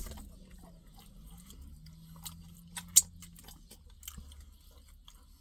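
A person chewing a mouthful of tender steak, with small wet mouth clicks, and a single sharp click about three seconds in.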